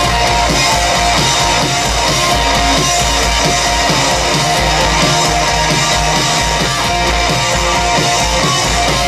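Live punk-metal band playing loud: heavily distorted electric guitars over bass and drums in a dense, unbroken wall of sound.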